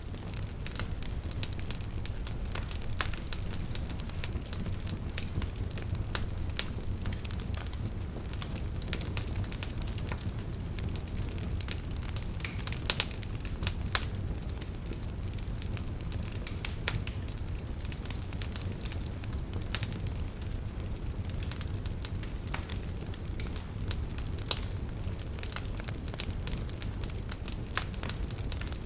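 Wood fire burning in a fireplace: a steady low rumble of flames with frequent sharp, irregular crackles and pops of the burning logs.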